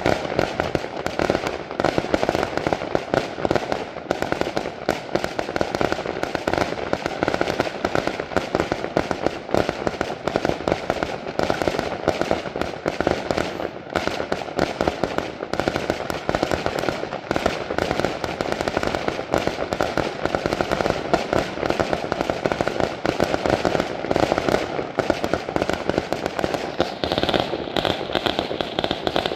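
Fireworks display in a dense, unbroken barrage: many sharp bangs and crackles overlapping in quick succession as low bursts of white crackling stars go off. A higher hiss joins near the end.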